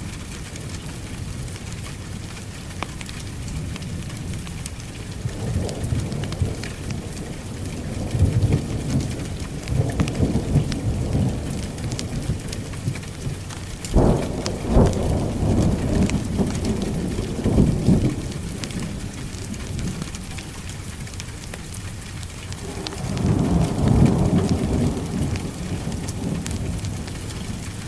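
Steady rain with thunder rumbling several times. About halfway through comes a sharp thunderclap that rolls on for a few seconds, and another long rumble follows near the end.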